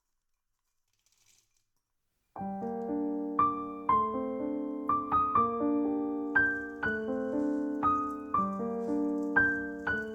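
Silence, then background piano music starts abruptly about two seconds in, single notes and chords struck in an even rhythm of about two a second.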